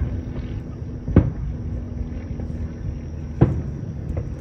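Aerial firework shells bursting: two sharp bangs about two seconds apart, the first about a second in, then a fainter crack near the end, over a steady low rumble.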